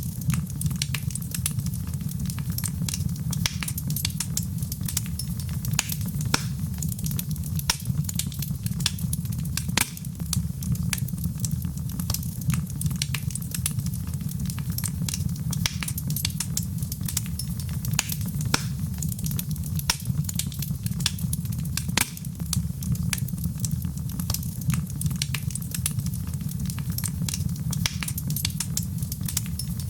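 Fireplace fire crackling, with frequent irregular sharp pops and snaps over a steady low rumble of the flames.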